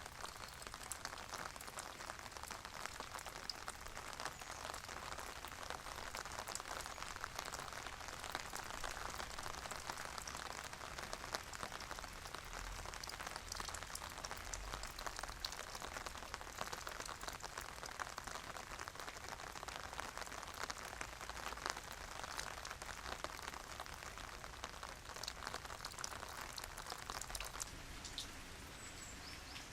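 Steady rain falling, with many separate drops ticking on a surface. It eases slightly near the end.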